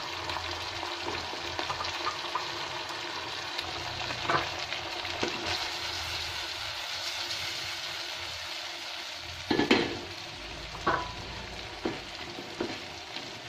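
Cut long beans and sardines sizzling in chili sauce in a wok, stirred with a wooden spatula that knocks and scrapes against the pan a few times, loudest about two-thirds of the way through.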